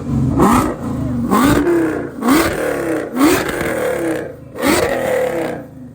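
Car engine revved in quick repeated throttle blips, about one a second, each a sharp rise in pitch. The revving stops near the end.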